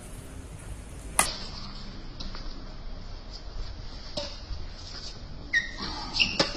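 Sharp strikes of badminton rackets on a shuttlecock during a rally, the loudest about a second in and several lighter ones after, over a low wind rumble on the microphone. A few short high squeaks come near the end.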